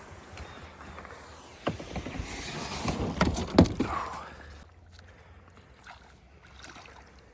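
Kayak on the river: paddle strokes splashing and a few knocks against the hull, loudest two to four seconds in, then quieter water.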